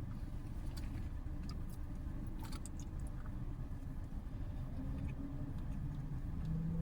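Steady low rumble, with a few short clicks and crinkles between about one and three seconds in.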